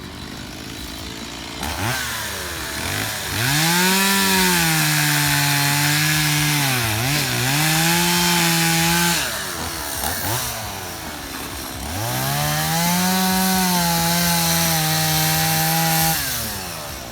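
Stihl two-stroke chainsaw revved up to full throttle twice, each time holding high for several seconds and then dropping back to idle. The pitch sags briefly once during the first run, as if the chain is loaded in the wood.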